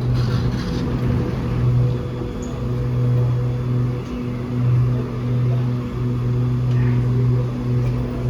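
Steady low electrical hum that wavers slightly in level, from the Otis Hovair air-levitated people mover tram standing at the station.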